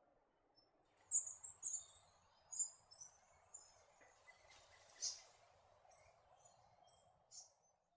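Spangled drongo calling: a run of short, high-pitched chattering notes starting about a second in, over a faint steady background noise.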